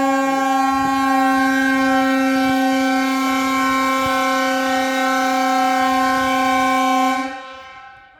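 Blasting warning horn sounding one long steady blast at a single pitch: the first warning signal, a quarter of an hour before the chimney demolition charge is fired. It stops about seven seconds in and trails away over the following second.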